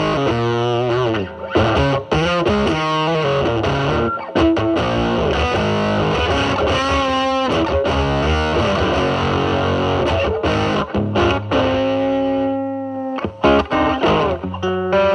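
Telecaster electric guitar played through a DIY Mosrite Fuzzrite clone fuzz pedal (2N2369 silicon transistor), with the fuzz knob at 4, into a Marshall Valvestate amp's drive channel. It plays a quick run of fuzzed notes, then holds notes that ring out near the end.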